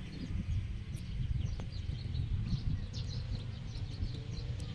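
Small birds chirping over and over, short high chirps several times a second, over a low steady rumble of outdoor background noise.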